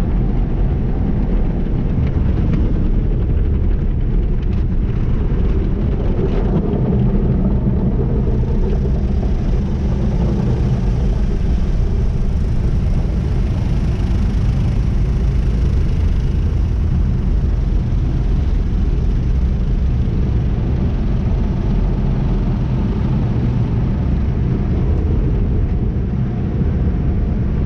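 Tunnel car wash equipment working over the car: a steady low rumble, with a higher hiss joining about a third of the way in and fading near the end.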